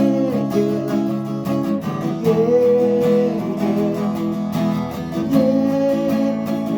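Instrumental music: acoustic guitar strumming chords, with a long held melody note over it that comes back every few seconds.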